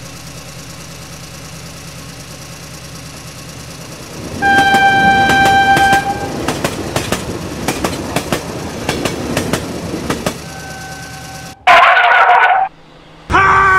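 Steady low engine hum, then a loud train horn blast about four seconds in, followed by the rapid clickety-clack of railway tank wagons rolling past. A second, shorter horn sounds about ten seconds in, and a loud wavering cry comes near the end.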